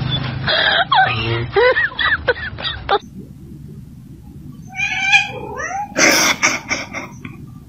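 A puppy giving a run of high, squeaky yelps that swoop up and down. Then a cat meowing about five seconds in, followed by a short, loud noisy burst.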